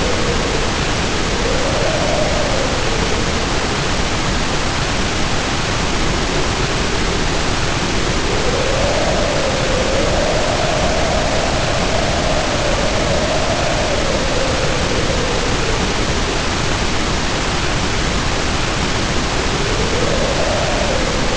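Steady heavy rain hiss under a howling wind whose pitch swells and sinks in slow waves every few seconds.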